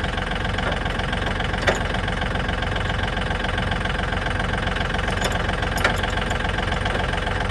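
Tractor engine running steadily, with two short sharp clicks, one early and one about two-thirds of the way through.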